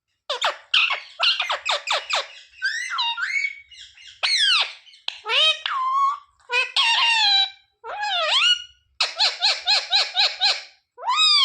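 Indian ringneck parrot calling and chattering in shrill, pitch-sweeping notes. It gives a quick run of short notes at the start, swooping calls through the middle, and a fast string of repeated notes near the end.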